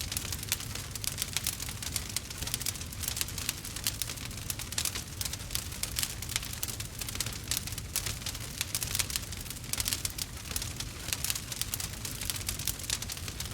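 Burning wood fire crackling steadily with many small, irregular pops, over a low continuous rumble.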